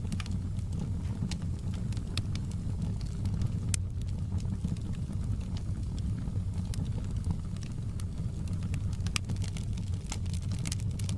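Fire crackling: a steady low rumble with frequent short, sharp pops and snaps, which come thicker near the end.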